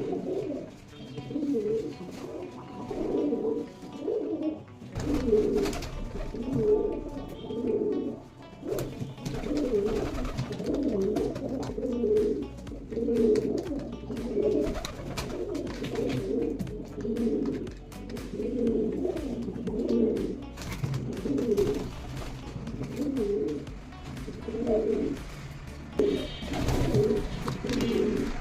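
Domestic pigeons cooing, several low rolling coos overlapping and repeating about once a second without a break.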